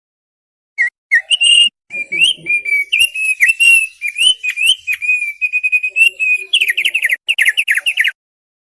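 Opior paruh tebal songbird singing a rapid, continuous run of clear whistled notes that slur up and down, quickening into a fast trill of short notes near the end.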